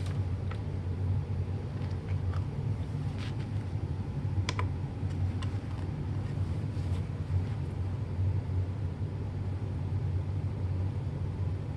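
A steady low machine hum, with a few light clicks and taps of handling about half a second, three seconds and four and a half seconds in.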